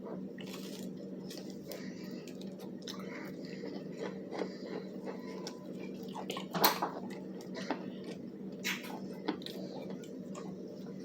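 Close-up chewing and biting of crispy fried chicken, with wet squishing and short crunchy clicks. A sharper crunch or clack comes about six and a half seconds in. A steady low hum runs underneath.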